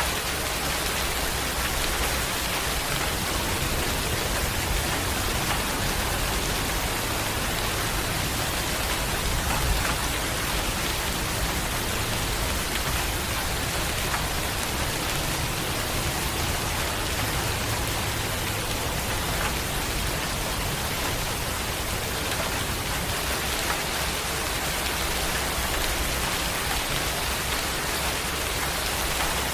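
Steady, heavy rain falling on a surface, an even hiss of countless drops with a few sharper drop impacts standing out.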